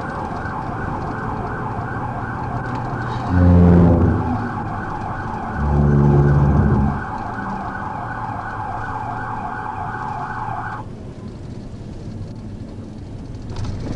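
Police patrol car siren in a rapid yelp, with two long, loud horn blasts about 3 and 6 seconds in; the siren cuts off about 11 seconds in, leaving the car's road and engine noise.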